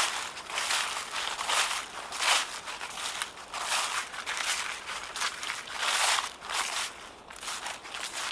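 Footsteps crunching through dry fallen leaves at a slow, steady walking pace, about one step a second, growing fainter near the end.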